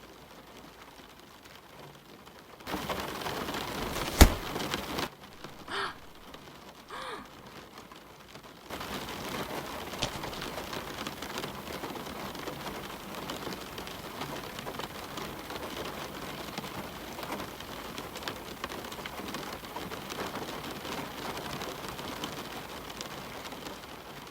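Rain falling steadily, setting in about a third of the way through. Before it comes a short rush of noise with one sharp, loud crack and a couple of faint brief sounds.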